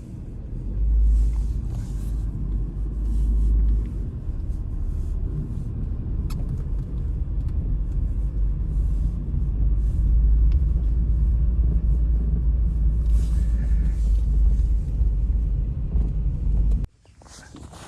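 Strong wind buffeting the microphone: a deep, gusting rumble that starts and cuts off abruptly.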